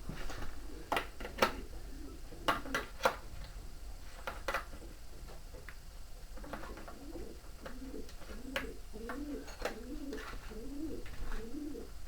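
Pigeon or dove cooing: a run of low, repeated coos that starts about halfway through. Scattered sharp clicks and knocks come before it.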